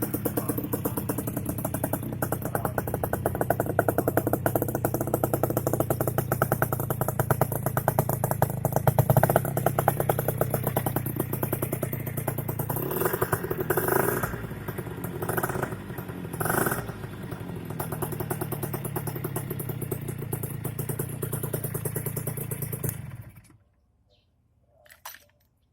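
Kawasaki Binter GTO Mach II motorcycle's two-stroke engine running at idle, blipped up and down in pitch a couple of times past the middle, then cut off near the end.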